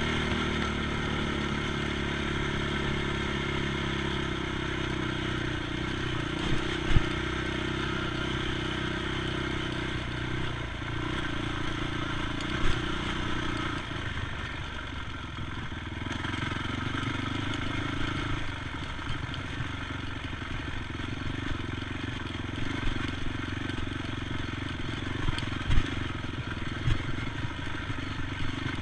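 ATV engine running at changing speeds, its pitch stepping up and down every few seconds, with a few sharp knocks and some clatter along the way.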